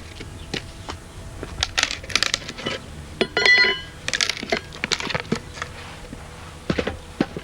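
Wood being split by hand: an uneven run of cracks, knocks and crackling, with a short ringing metallic clink about halfway through.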